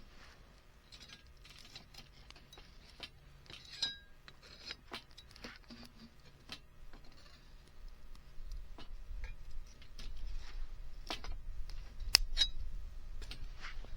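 Wood fire crackling in a compact V-shaped grill fire pit, with irregular sharp pops, the loudest a few seconds before the end. A low rumble rises in the second half.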